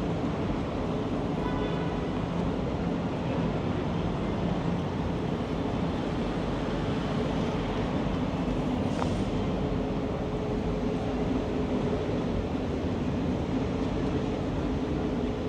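Steady rumble of street vehicles, with a low steady hum.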